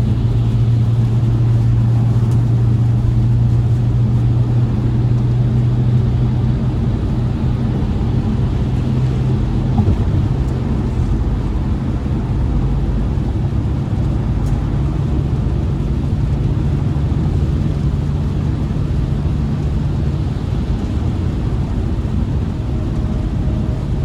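BMW E60 sedan engine running at a steady low drone while driving, with road noise over it.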